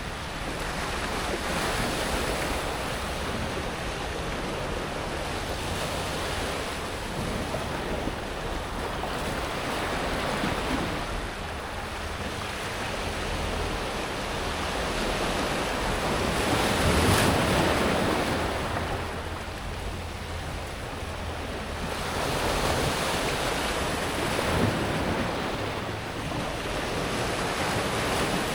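Small sea waves washing up and drawing back over a pebble beach, the rush of water and rolling stones swelling and easing every few seconds, with the biggest surge a little past the middle.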